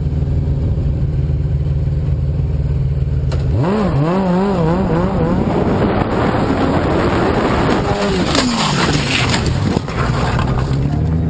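Motorcycle engine running steadily. About three and a half seconds in, a loud wavering pitched sound rises over it and falls away a few seconds later, followed by a couple of seconds of scraping, clattering noise as the motorcycle collides with a car. The steady engine hum returns near the end.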